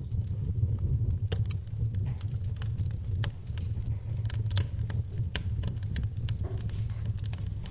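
Wood fire in a fireplace crackling, with sharp irregular pops over a low steady rumble, and rain falling in the background.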